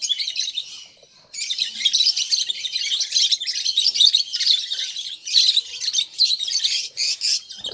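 A flock of about ten pairs of lutino opaline lovebirds calling together in a dense, high-pitched chatter of chirps. The chatter thins briefly about a second in, then picks up again just as thick.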